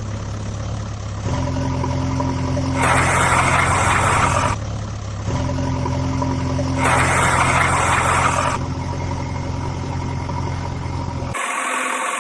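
Vehicle engine running steadily, surging louder twice for about two seconds each, about four seconds apart. The sound changes briefly near the end.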